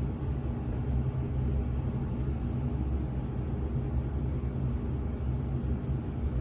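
Hurricane-force wind making a steady low rumble, with a faint hum under it.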